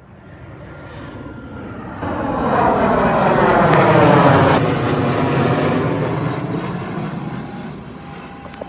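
Military jet flying over, its noise swelling to a loud peak about four seconds in and then fading away as it passes.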